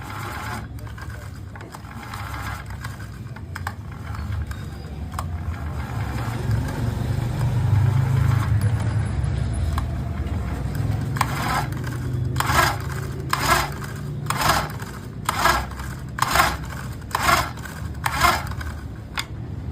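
Honda GX35 brush cutter's recoil starter being pulled over and over, about once a second through the second half. The engine turns over freely without firing, a sign of no compression in the four-stroke engine. Before the pulls there is a steady low rumble and some handling noise.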